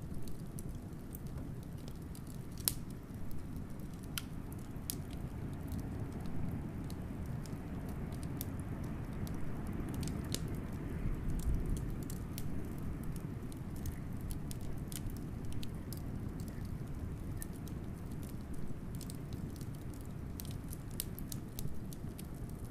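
Wood fire crackling with irregular sharp pops, over a low, steady rush of blizzard wind that swells about halfway through.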